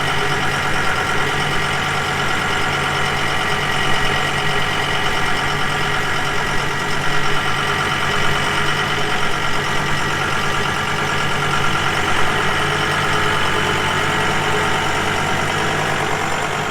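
John Deere tractor engine running steadily at an even speed, close and loud.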